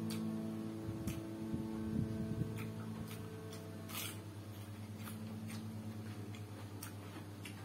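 Crisp crunches and mouth clicks of someone biting into and chewing raw cucumber, with the loudest crunch about four seconds in. A steady low hum sounds underneath and fades slowly.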